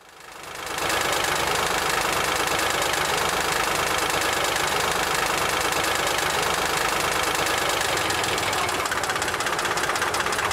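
Car engine sound effect running steadily, fading in over the first second.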